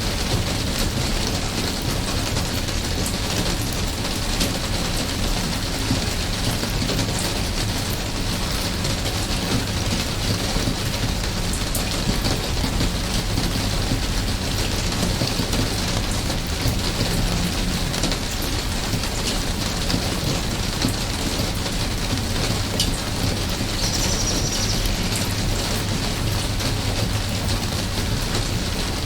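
Steady rainfall, an even hiss with many individual drops ticking, and a brief high-pitched sound near the end.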